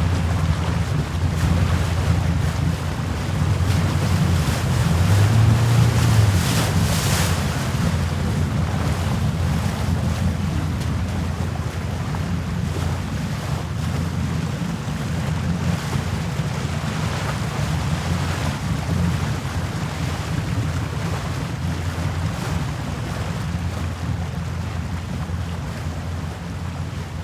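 Wind buffeting the microphone with a heavy low rumble over sea waves washing, a sailing-boat ambience. It swells around six seconds in and eases slightly near the end.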